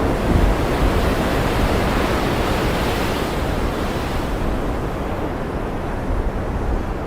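Ocean surf rushing steadily, swelling around three seconds in and then easing, as the tail of a low thunder rumble fades out at the start.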